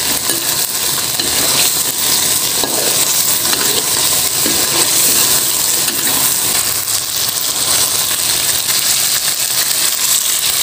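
Chili-tomato paste and fish frying in a wok, sizzling steadily, while a metal spatula stirs and scrapes against the pan with light clinks.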